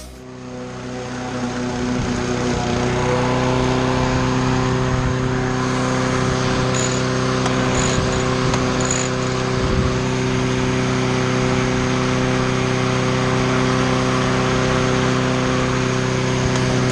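Small petrol engine of lawn-care equipment running steadily at constant speed, fading up over the first couple of seconds and then holding even.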